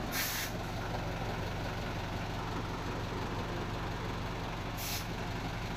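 Vehicle engine running steadily with a low, even hum, with two short hisses, one at the start and one near the end.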